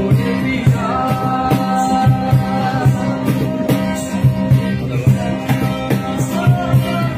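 A boy singing a slow Hindi film song, holding long ornamented notes, over instrumental accompaniment with a steady beat of about two strokes a second.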